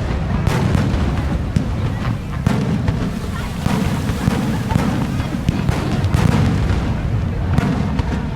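Fireworks display: shells bursting in a rapid, unbroken run of bangs over a heavy low rumble of booms.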